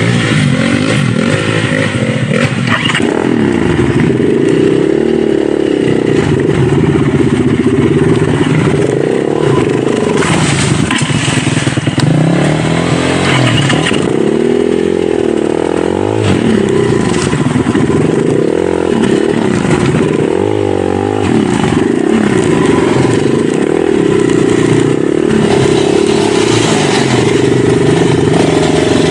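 Dirt bike engine running under load, its revs rising and falling over and over as it rides an off-road trail.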